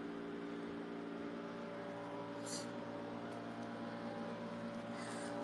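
Window-type air conditioner running close to the microphone: a steady hum of several tones over a whooshing noise, so loud.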